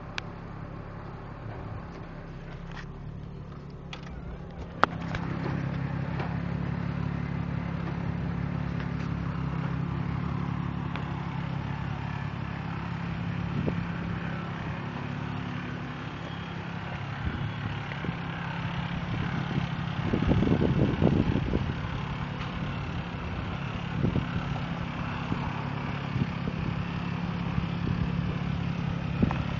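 Chrysler Crossfire's 3.2-litre V6 running at idle through a Magnaflow exhaust. It gets louder after a sharp click about five seconds in, and gives one short rev about two-thirds of the way through.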